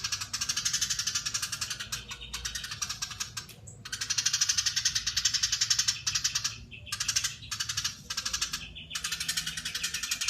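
Eurasian tree sparrow (burung gereja) giving a long, dense, rapid chatter of high notes, the bird's 'crecetan', broken by a few short pauses.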